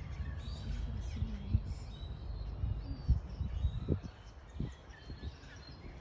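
Small birds chirping and calling in short notes over a steady low rumble, with a few low thumps about one and a half, three and four seconds in.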